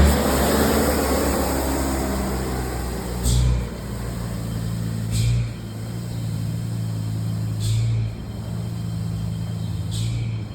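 Truck engine running steadily at low revs, with four short hisses of air about two seconds apart.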